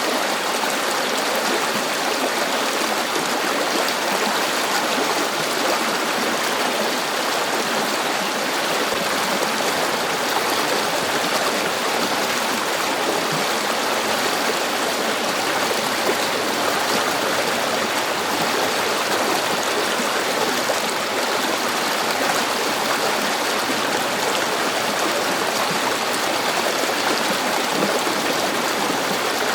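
River water flowing and babbling steadily, an even rushing with no breaks.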